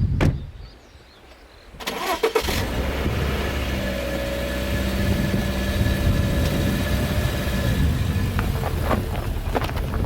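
A car engine starting about two seconds in, after a sharp thump and a short quiet gap, then settling into a steady idle.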